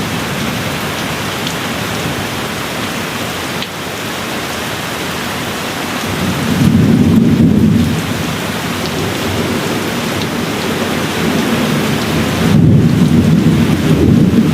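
Steady rain falling, with low rolls of distant thunder that swell twice, about six and twelve seconds in.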